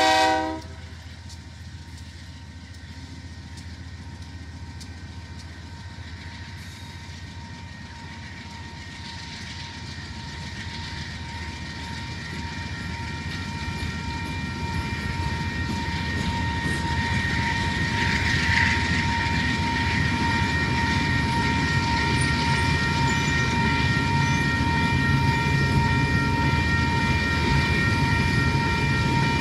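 Union Pacific coal train passing slowly: the lead locomotive's horn cuts off about half a second in, then the trailing locomotives and coal hopper cars roll by with a steady rumble that grows louder over the first half and then holds. A steady high ringing tone runs under it.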